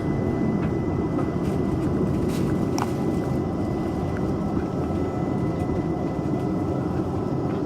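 London Overground electric train running, heard from inside the carriage: a steady low rumble with a faint constant high whine that stops near the end, and a few light clicks.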